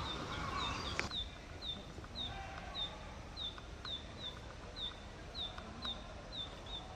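Narcissus flycatcher song: a warbled phrase in the first second ends in a sharp click, over a steady run of short, high, down-slurred notes repeated about three times a second.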